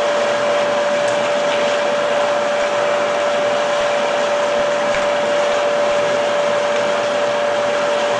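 Electric pump motor of a water-heating system running steadily: a constant whine over an even rushing whir.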